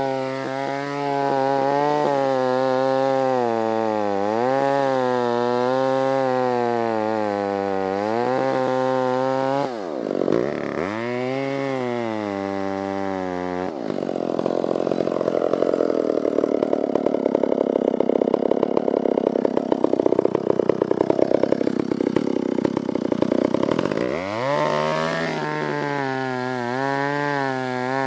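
Stihl 056 two-stroke chainsaw with a 36-inch bar running hard while cutting into a dead elm, its engine pitch wavering under load. About ten seconds in the revs drop sharply and climb back, followed by a rougher, rattling stretch of about ten seconds before the revs dip and recover again.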